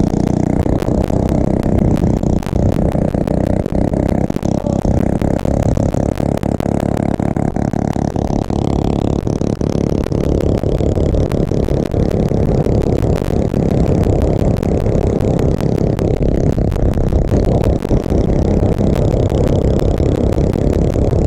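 Small motorbike engine running steadily under way, with wind buffeting the microphone in many short pops.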